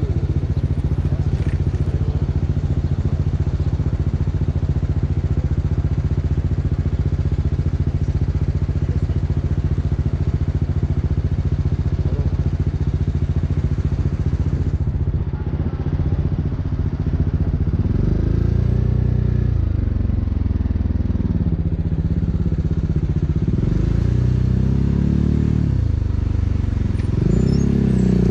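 BMW G 310 R's single-cylinder engine through an Akrapovic racing exhaust, running steadily for most of the stretch. From about two-thirds of the way in it rises and falls in pitch several times as the bike accelerates and shifts gears.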